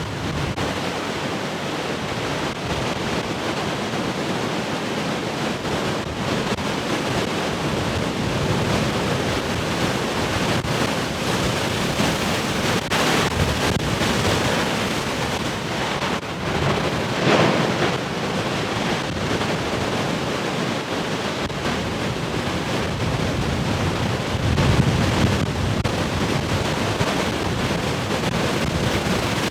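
Heavy ocean surf: big waves breaking and washing in a continuous rush, with louder breakers swelling about 13, 17 and 25 seconds in. Wind buffets the microphone.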